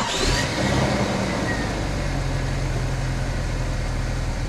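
A vehicle engine that has just started, running at a steady idle, with a brief rise in pitch in the first half second before it settles.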